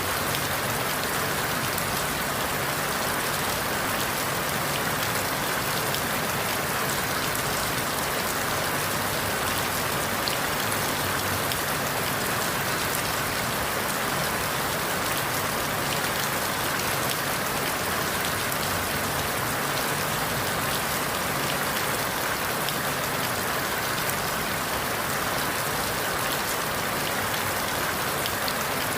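Steady rain falling through forest leaves: an even hiss with many fine drop patters, unchanging in level.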